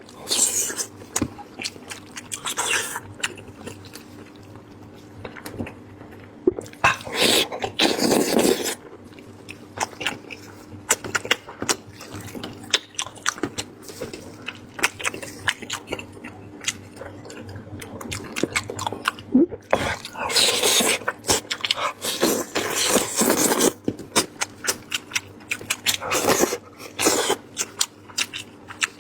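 Close-miked eating of braised lamb head: chewing with many small wet mouth clicks, and several louder noisy stretches of sucking and tearing at the meat.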